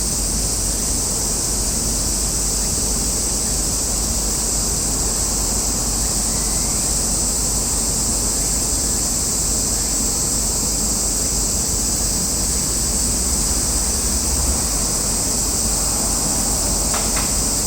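Steady outdoor background noise: a constant high-pitched hiss over a low rumble, with a brief click near the end.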